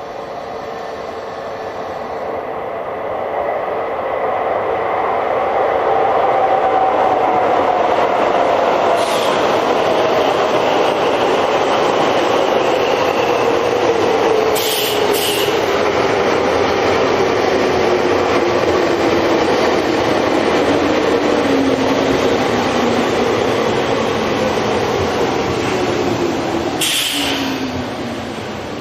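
Tokyo Metro 5000 series electric train running, its motor and gear whine falling steadily in pitch over about twenty seconds as it slows. A few sharp clicks come through the running noise.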